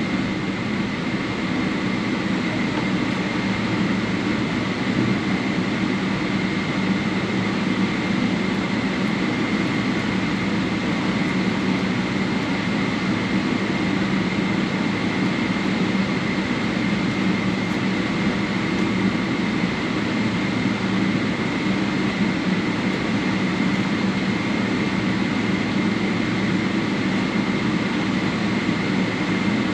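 Steady cabin noise inside a Boeing 777-300 taxiing after landing, its engines at idle: an even rush of air with a constant high whine and a low hum.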